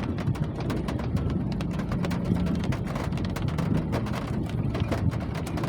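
Rain falling, with many irregular drops tapping a hard surface in a dense, steady patter. A brief low steady tone sounds about two seconds in.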